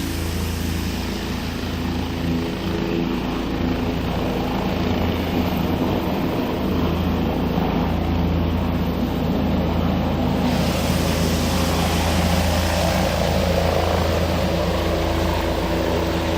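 Helicopter running: a steady low drone of engine and rotor, with more hiss joining about ten seconds in.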